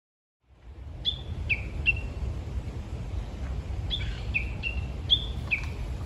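A songbird calling in short, sharp notes that each slide down in pitch: three notes about a second in, then five more from about four seconds in. Wind rumbles on the microphone underneath.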